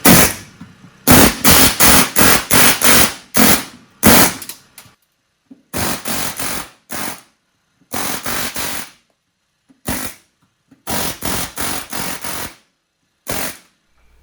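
A power tool run in short rattling bursts against the bus's ceiling rivets, in runs of three to six bursts with pauses between.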